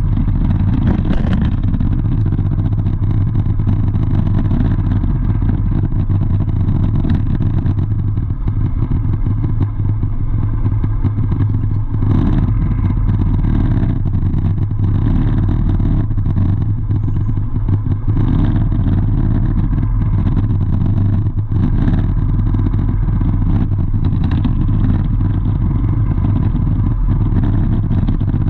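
A vehicle engine running steadily with a constant low hum and rumble, and faint clatter over it.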